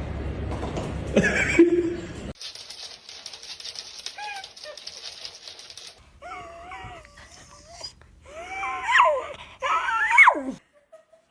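A dog whining and crying in high, wavering whimpers that rise and fall, loudest in the second half, after a few seconds of rustling handling noise.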